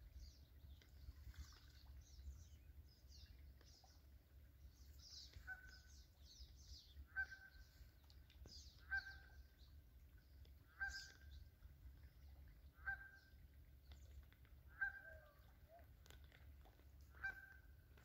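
A bird gives a faint, short single-note call over and over, about every two seconds from around five seconds in. Fainter, higher chirps from small birds come mostly in the first half.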